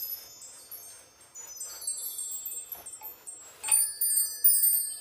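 High-pitched metal chimes tinkling: many bright ringing tones overlapping and dying away, with a louder strike about four seconds in, as the chimes are handled and set swinging.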